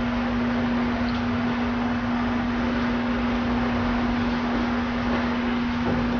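Steady background hum and hiss with one constant low tone, from a running appliance such as a fan, with a couple of faint soft ticks.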